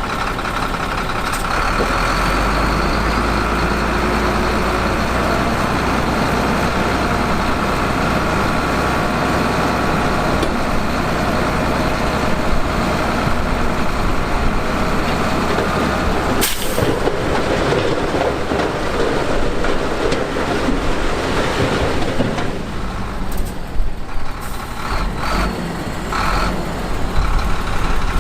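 Heavy diesel earth-moving machinery running and working, a continuous engine sound with a faint steady whine over it. A sudden break comes about halfway through, and the sound turns choppier near the end.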